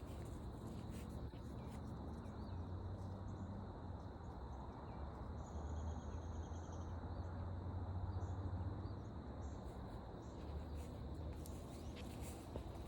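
Forest insects droning: a steady high shrill, joined about five seconds in by a short pulsed trill, over a low steady rumble. A few faint footstep ticks near the start and the end.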